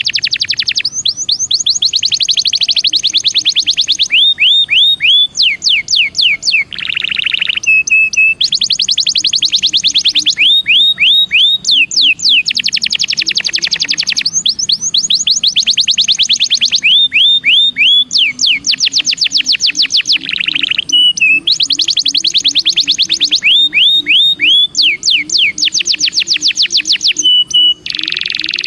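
Belgian canary singing a long, continuous song of rapid trills, with phrases of fast repeated rising notes that switch to a new figure every second or two.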